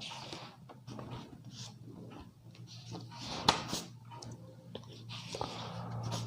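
Handling noises: scattered rustles and small clicks, with one sharper click about three and a half seconds in, over a steady low hum.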